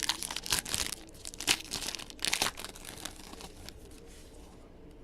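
The wrapper of a football trading-card pack being torn open and crinkled, in a run of irregular rustles that dies away near the end.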